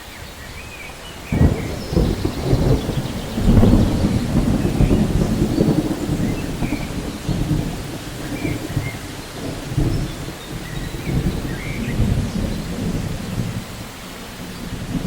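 Thunder rolling over steady rain in a rainforest, starting suddenly about a second and a half in and rumbling away over the following seconds, with a few faint bird chirps above it.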